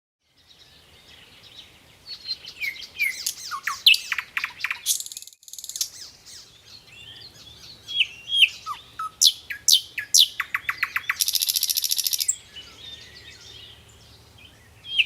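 Birds singing and calling, starting just after a moment of silence: many quick falling whistles and fast trills, with a harsh buzzing rattle about eleven seconds in.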